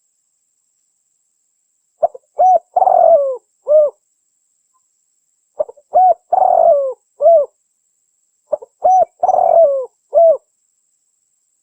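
Spotted dove (tekukur) calling: three cooing phrases about three seconds apart, each a few short coos around one longer rolling coo.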